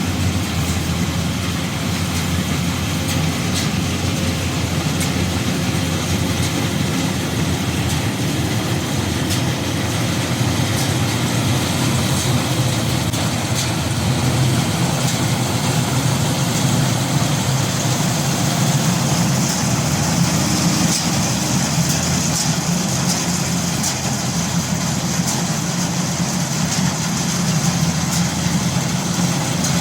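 Combine harvester's engine running steadily, a constant low drone.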